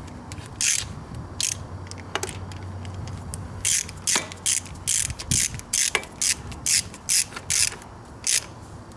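Hand socket ratchet clicking in about fifteen short, quick strokes, running down bolts on the engine.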